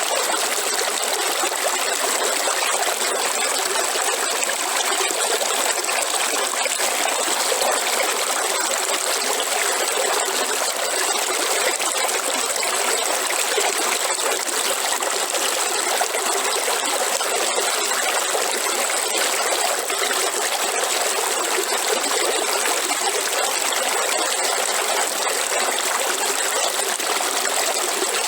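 Waterfall: water falling and splashing steadily, an even rushing hiss with no deep rumble.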